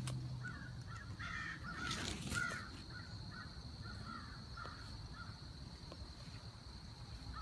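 Birds cawing in a run of short, repeated calls, over a steady high-pitched tone.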